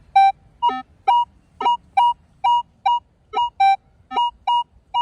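Metal detector's target tone: short electronic beeps about twice a second as the coil sweeps back and forth over a buried metal target, alternating between two close pitches. A clean, repeatable signal, a really nice tone.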